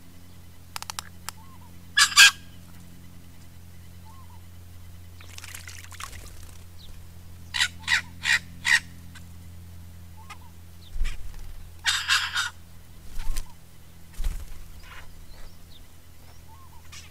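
Birds giving short, harsh calls in bursts: one loud call about 2 seconds in, four quick calls around 8 seconds and a cluster near 12 seconds. A steady low hum runs underneath.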